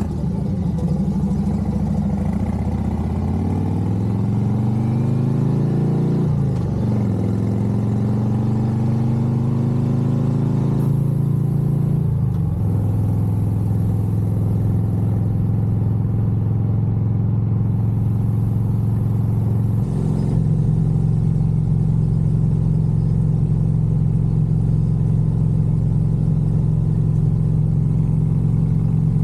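Harley-Davidson Road Glide's V-twin engine accelerating through the gears while riding: the pitch climbs, drops at an upshift about six seconds in, climbs again and drops at another shift about twelve seconds in, then holds steady at cruising speed.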